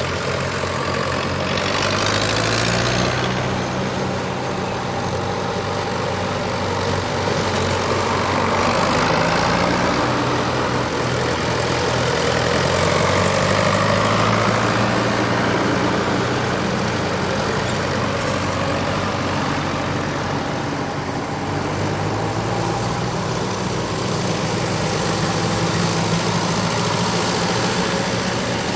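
Tractor engines running as tractors drive past one after another, the engine note rising and falling as each one comes by.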